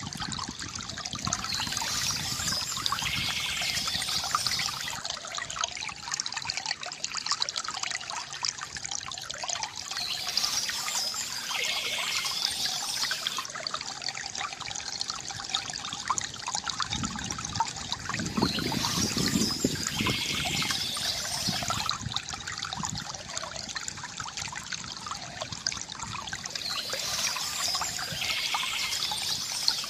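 Water trickling and gurgling steadily from a bamboo fountain. A brighter, higher stretch of sound comes back about every eight or nine seconds, and a deeper gurgle swells for a few seconds around the middle.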